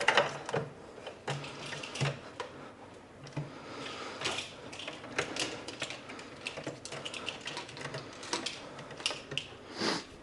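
Hand tools being handled and rummaged through: irregular clicks, clinks and knocks of metal against metal, with a louder knock at the start and another near the end.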